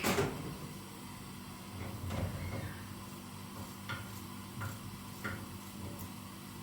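A sharp knock, then a few lighter clicks and knocks spread over the next few seconds, over a low steady hum.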